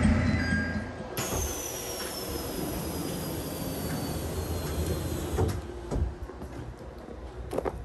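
Resort Shirakami hybrid diesel railcar rumbling as it pulls into the station, then, after a cut at the open door, a quieter steady hum and hiss with a faint high whine falling slowly in pitch. A few footsteps knock on the metal door step and platform near the end.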